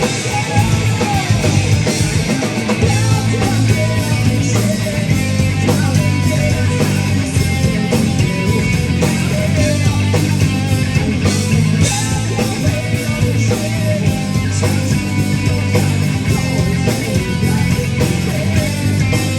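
Rock band playing loud and live: electric guitar, bass and drums, with steady drum hits over a heavy, sustained bass line.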